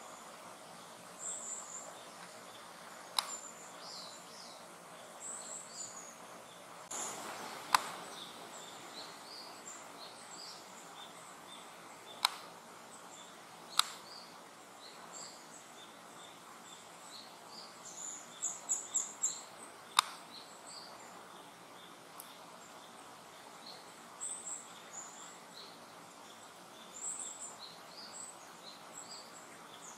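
Small woodland birds calling with short high chirps, scattered throughout, with a quick run of chirps about 18 to 19 seconds in. Several sharp clicks break in, the loudest about 8 and 20 seconds in.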